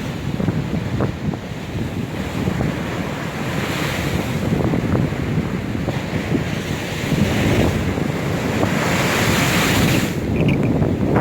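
Storm waves crashing and washing on the shore, with strong wind buffeting the microphone. The surf swells up into a louder hissing wash about four seconds in and again near the end.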